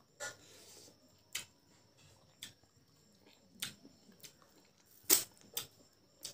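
Close-miked chewing of a mouthful of rice and boiled pork: scattered wet mouth clicks and smacks, about eight in all, the loudest about five seconds in.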